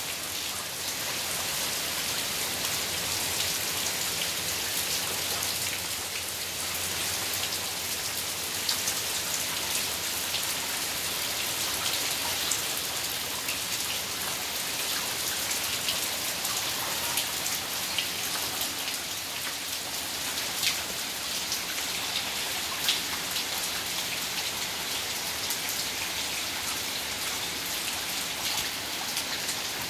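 Heavy rain pouring steadily: an even hiss, with scattered sharper taps of drops striking close by.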